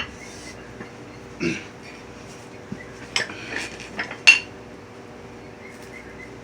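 Several scattered sharp metallic clinks and knocks, the loudest about four seconds in, over a faint steady hum.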